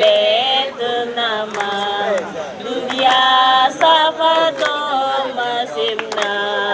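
Voices chanting a song together in long, held notes that slide between pitches, over a steady low drone.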